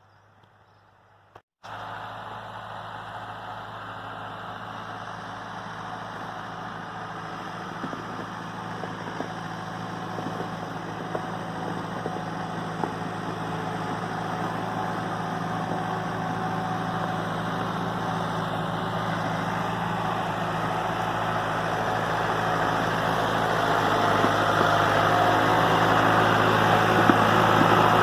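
New Holland tractor engine running steadily, starting abruptly after a second and a half of near silence and growing gradually louder.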